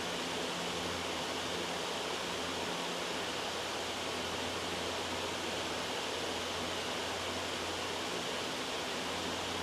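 Steady, loud white noise: an even, unbroken hiss with a faint low hum beneath it.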